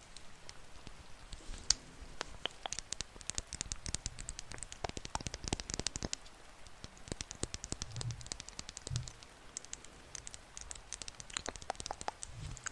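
Close-miked ASMR trigger: a dense, irregular run of small crisp clicks and taps, with two soft low thumps about eight and nine seconds in.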